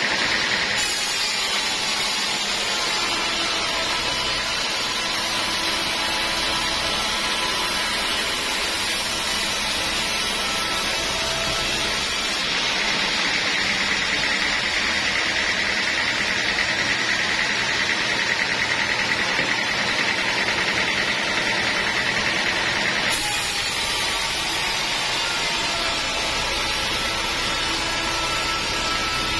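Sawmill saw running and cutting through teak wood, a steady machine noise with a high whine that grows stronger for about ten seconds in the middle and then drops back.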